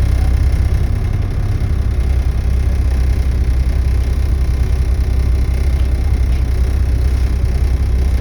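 Volvo B7TL double-decker bus's straight-six diesel engine running with a steady low rumble, through an exhaust that is blown.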